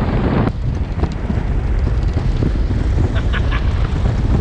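Wind buffeting the microphone: a loud, steady low rumble, with a sudden cut in the sound about half a second in and three short high chirps about three seconds in.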